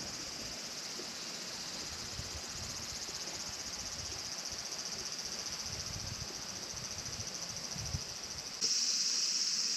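A steady chorus of insects chirring in a high, finely pulsing band, with faint low rumbles beneath; near the end it jumps louder all at once.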